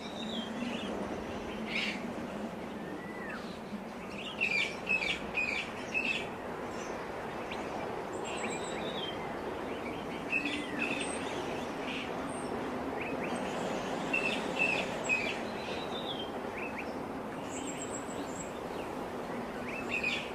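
Birds chirping and calling in short high notes, with busier runs of chirps about five and fifteen seconds in, over a steady low background hum.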